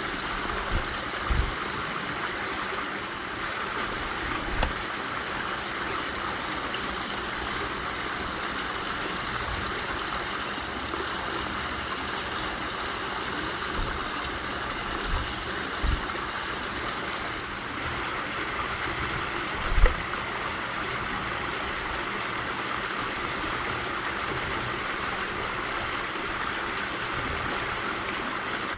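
Steady outdoor background hiss, with short, high bird chips every few seconds and a few soft low thumps.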